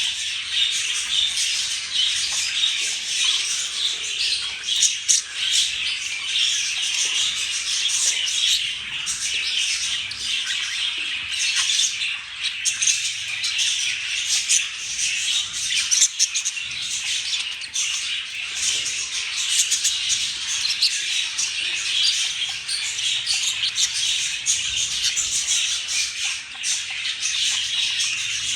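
Budgerigars chattering and warbling without a break, a dense stream of rapid scratchy chirps and clicks.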